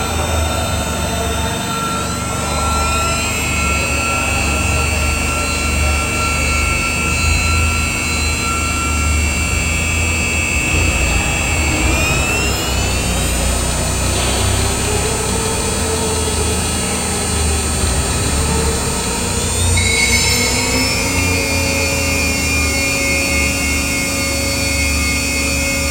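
Stepcraft Q408 CNC router running: a steady high machine whine over a low hum, its pitch gliding up about two seconds in, back down around twelve seconds, and shifting again around twenty seconds.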